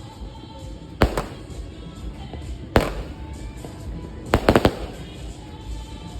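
Fireworks shells going off in a series of sharp bangs: one about a second in with a quick echo after it, another near three seconds, then a rapid cluster of four bangs around four and a half seconds.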